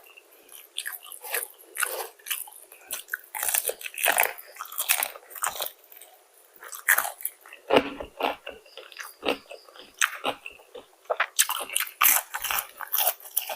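Close-up biting and chewing of crispy fried chicken, a string of irregular loud crunches and crackles.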